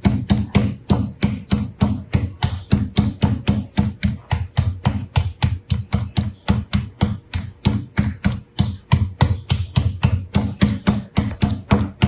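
Chicken breast being pounded on a cutting board to tenderize it: a fast, even run of sharp knocks, about five a second.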